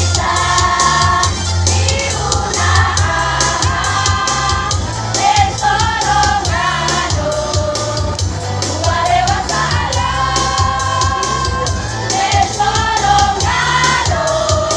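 A choir singing a song in harmony over backing music with a steady bass and beat.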